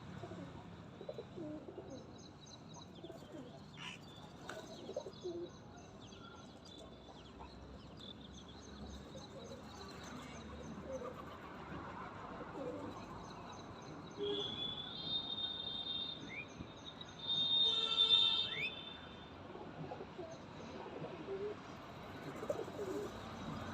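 Birds feeding on scattered grain, calling and chirping in quick series, with two louder bursts of calls about fourteen and eighteen seconds in.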